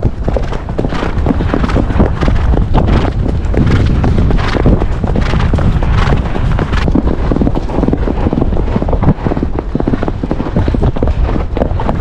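A horse's hooves striking the forest trail at a canter, in a steady repeating beat, over a heavy low rumble.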